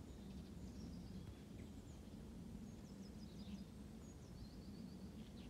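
Small songbirds chirping and calling faintly, with a quick run of repeated high notes midway, over a steady low background rumble.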